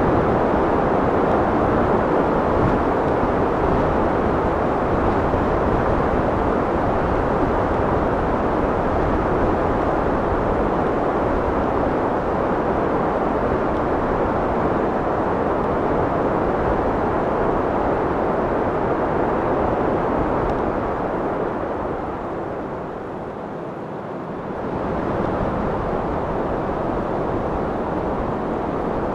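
Steady wind blowing, a full rushing noise that eases off briefly about three quarters of the way through and then builds again.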